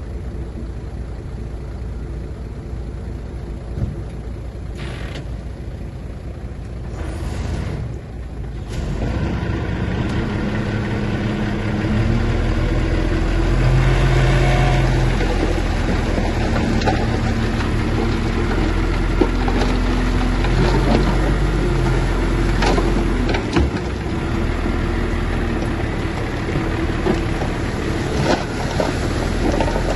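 Heavy diesel engine of earth-moving machinery working under load. It runs steadily, then rises and grows louder about a third of the way in, with scattered sharp metallic clanks in the later part.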